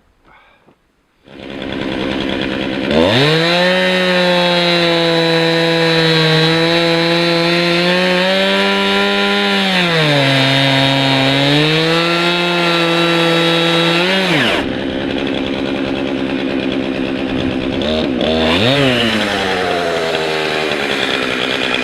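Two-stroke chainsaw run up to full throttle for about eleven seconds, its pitch sagging for a couple of seconds midway, then dropping back to idle. It is briefly revved once more and settles to idle.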